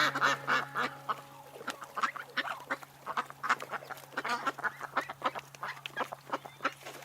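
Ducks quacking: many short, quick quacks in a rapid, chattering series, loudest in the first second, over a steady low hum.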